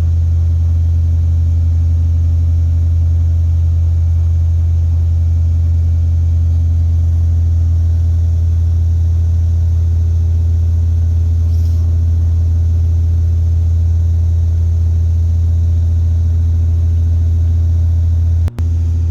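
2016 Hyundai Veloster Turbo's 1.6-litre turbocharged direct-injection four-cylinder held at a steady fast idle of about 2500 rpm with the throttle lightly pressed, heard from inside the cabin. It is burning off intake-valve and turbo cleaner after a top-end cleaning treatment while warming back up to temperature.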